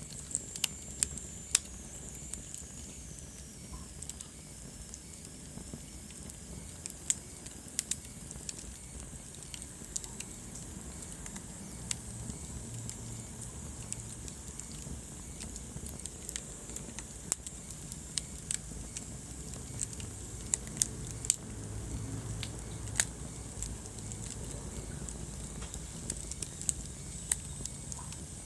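Wood fire burning in a fireplace: irregular sharp crackles and pops over a steady low rumble of flames, with a faint high whistle sliding down in pitch near the start.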